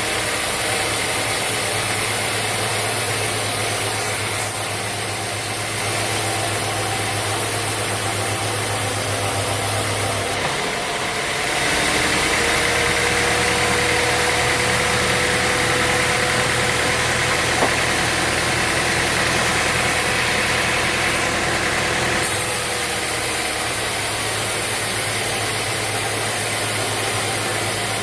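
Sawmill machinery running steadily with an engine drone. The sound changes for about ten seconds in the middle, with a higher tone added and the low hum altered, then returns to the first steady drone.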